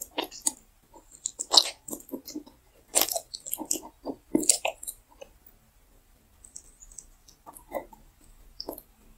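Close-miked mouth sounds of someone chewing gummy candy: irregular bites and mouth clicks, dense for the first five seconds, then sparser after a short lull.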